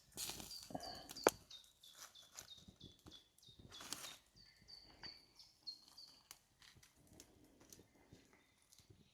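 A small bird calling, a short high note repeated about twice a second for several seconds before stopping, over scattered crunches and clicks, with one sharp snap a little over a second in.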